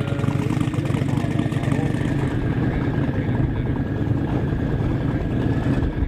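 Turbocharged LM7 V8 engine idling steadily with a choppy, uneven beat.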